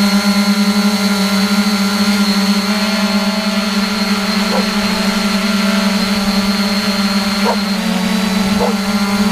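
3DR Iris+ quadcopter's four electric motors and propellers in flight, a steady loud drone made of several held pitches that drift slightly up and down.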